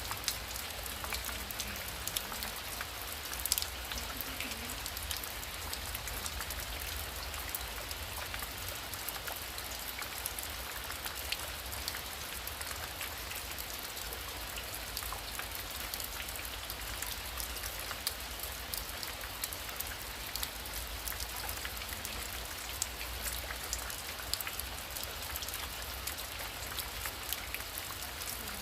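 Heavy rain falling steadily, a dense even hiss with many sharp individual drop hits and a low rumble underneath.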